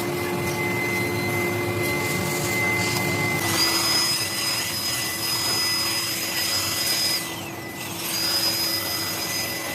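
A workshop machine tool running steadily with a motor whine. About three and a half seconds in, a higher hissing, whining cutting sound joins it, breaks off briefly near the eight-second mark, then starts again.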